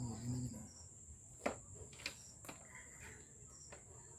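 Crickets chirring steadily and high-pitched, with a short low vocal sound at the start and a few sharp clicks around the middle, the first of them the loudest.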